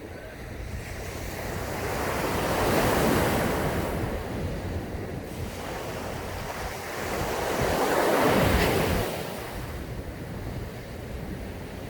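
Sea waves breaking on a sandy beach, two swells of surf rising and falling back, the louder one over halfway through. Wind buffets the microphone.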